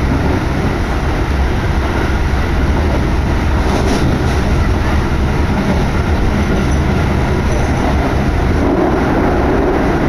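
Keikyu commuter train running at speed, heard from inside the car: a steady rumble of wheels on rail and running gear, with a couple of faint clicks about four seconds in.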